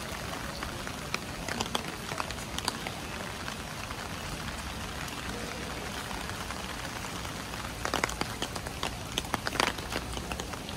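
Steady rain falling, with scattered drips and taps of drops landing, and a cluster of louder taps about eight seconds in.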